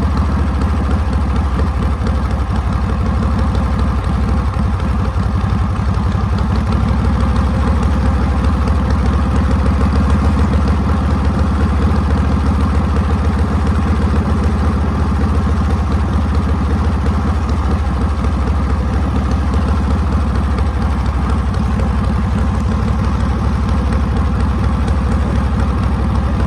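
Harley-Davidson Panhead V-twin engine running steadily with a deep, pulsing exhaust note.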